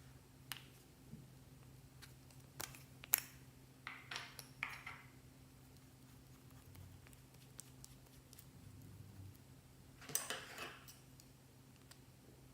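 Slime being handled: faint scattered sticky clicks and short crackling squishes, with the biggest cluster about ten seconds in, over a steady low hum.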